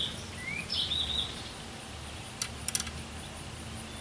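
Outdoor ambience: a bird chirping several short calls in the first second or so, then a few sharp small clicks about halfway through, over a faint steady high-pitched buzz.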